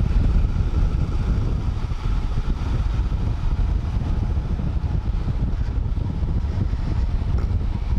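Royal Enfield Himalayan's single-cylinder engine running steadily under way, mixed with wind noise on the microphone.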